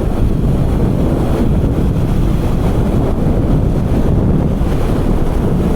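Steady heavy wind buffeting on a motorcycle rider's microphone at road speed, with the motorcycle's engine noise under it.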